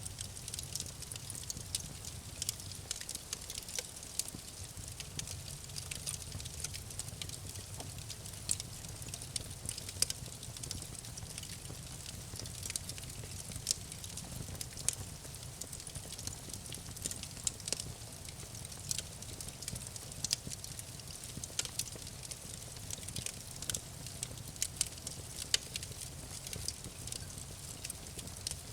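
Campfire crackling: irregular sharp pops and snaps from burning wood over a steady soft hiss and low rumble of the flames.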